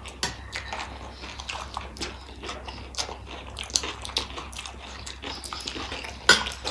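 Close-miked chewing and mouth sounds of people eating gilo chatpate by the spoonful, with many small wet clicks, and a sharper click near the end.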